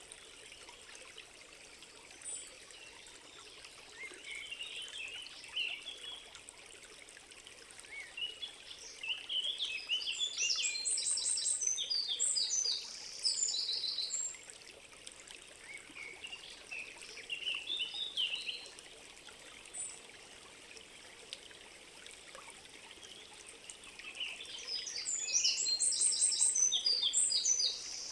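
Songbird singing in a forest, with long phrases of rapid high notes that rise and fall, over a steady soft trickle of a stream. The two loudest phrases come a little past a third of the way in and again near the end, with shorter bursts between them.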